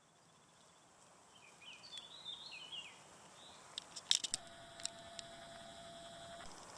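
Outdoor nature ambience that fades in. A bird sings a short run of quick chirping notes, then a few sharp clicks follow and a steady high hum sets in.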